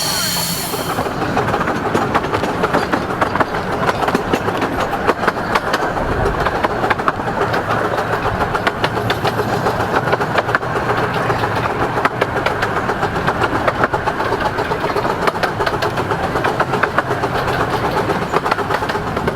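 A 15-inch gauge Romney, Hythe and Dymchurch Railway train running along the track, heard from aboard: a steady rumble with rapid clicking and clattering of wheels over the rails.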